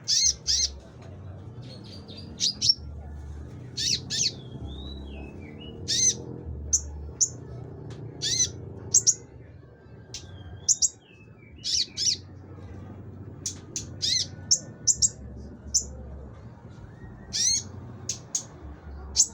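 A konin songbird calling actively, in the bird-keepers' sense of gacor: sharp, high chirps and short whistled notes repeated every second or two, over a faint low hum.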